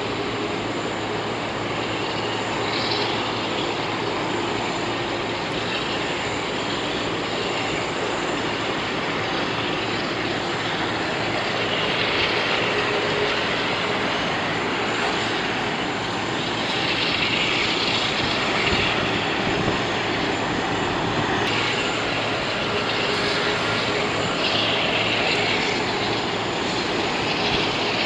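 Jet engines of an Airbus A380 running, a steady continuous noise that grows a little louder about halfway through.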